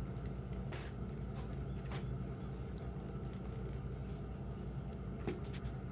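Steady low hum with a few short, soft clicks and rustles from pigeons moving about in the loft, one handling nesting straw.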